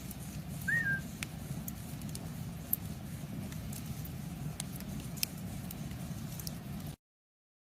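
Campfire crackling: scattered sharp pops and clicks over a steady low rumble, with one short chirp about a second in. The sound cuts off suddenly near the end.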